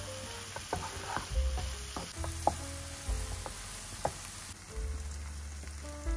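Chopped onion and tomato with paprika and flour sizzling in a non-stick frying pan while a wooden spatula stirs and scrapes them, with a few sharp knocks of the spatula against the pan.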